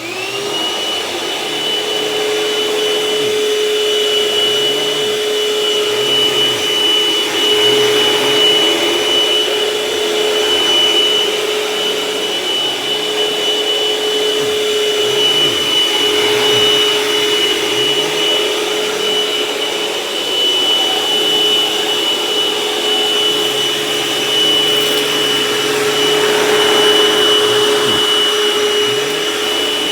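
Dirt Devil Envision Turbo upright vacuum cleaner switched on, its motor spinning up within about a second to a steady high whine, then running as it is worked over carpet to pick up shredded paper.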